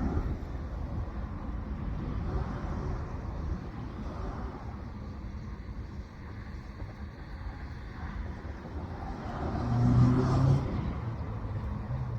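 A steady low rumble, with a passing engine that swells to its loudest near the end and then eases off.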